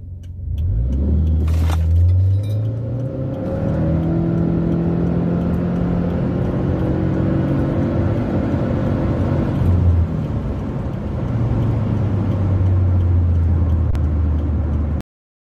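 Subaru Forester tS STI's turbocharged flat-four with CVT, heard from inside the cabin: it revs up against the brake for a two-pedal launch, then pulls at full throttle with the engine note held almost level and slowly climbing as the CVT keeps revs up, accelerating from standstill past 100 km/h. About ten seconds in the note changes and it settles into steady running, before the sound cuts off abruptly.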